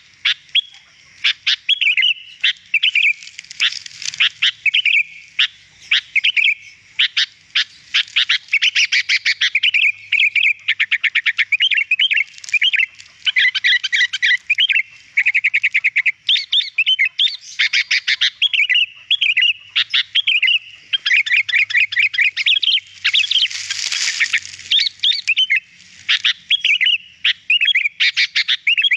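Sooty-headed bulbul (kutilang) singing in a long unbroken run of rapid chirps, whistled glides and fast trills, with a harsher, noisier burst near the end.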